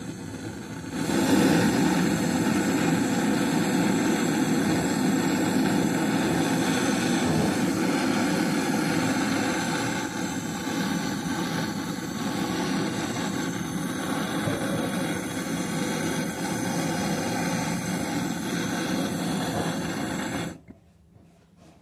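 A machine running steadily: it starts about a second in and cuts off suddenly near the end.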